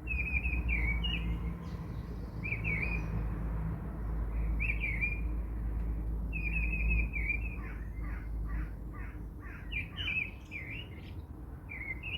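Small songbirds chirping in short, repeated high phrases, with a run of quick falling notes partway through, over a steady low rumble.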